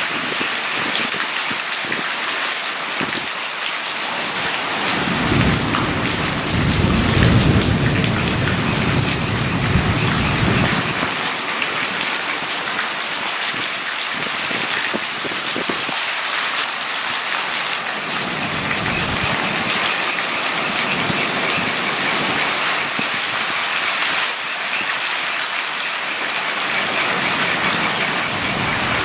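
Steady rain hissing down during a thunderstorm, with a rumble of thunder rolling in about five seconds in and lasting around six seconds, and a fainter low rumble later on.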